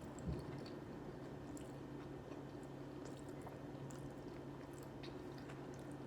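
Faint chewing with small wet mouth clicks, over a steady low electrical hum, with one soft thump right at the start.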